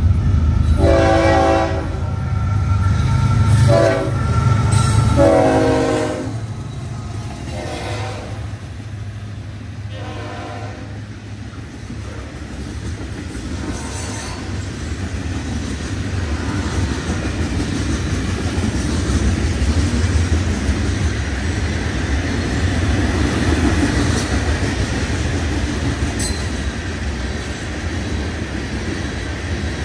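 A diesel freight train's multi-chime air horn sounds in about five blasts over the first ten seconds, over the rumble of the lead diesel locomotives (an ES44C4 and an SD40-2). Then a long string of loaded rock hoppers and gondolas rolls past with a steady rumble and clatter of wheels on rail that grows slightly louder.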